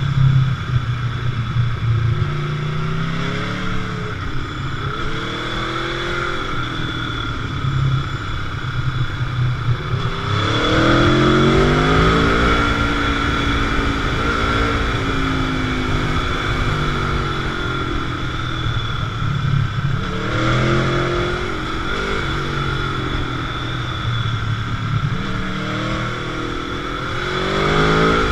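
Motorcycle engine under way, its note rising and falling several times as the rider accelerates and eases off, over a steady rush of road and wind noise.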